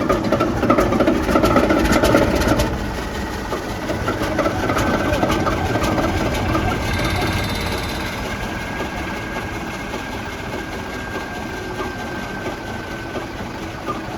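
Duvant 9VOS diesel engine running after start-up. It is louder, with sharp knocks, for the first two or three seconds, then settles into steady running that slowly grows quieter.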